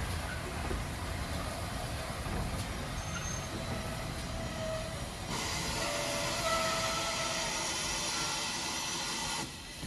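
Train running on the rails with a steady low rumble. About five seconds in, a loud hiss starts, with faint squealing tones in it, and cuts off suddenly just before the end.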